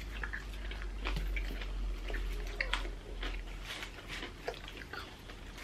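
People eating with their hands: chewing and mouth noises with scattered small clicks and smacks.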